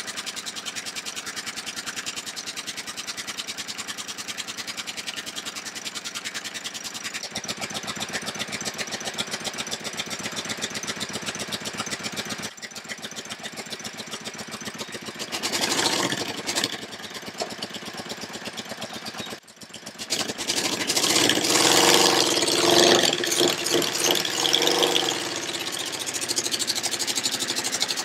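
Motorcycle engine idling with an even pulse, revved briefly about halfway through, then running louder with revving in the last third.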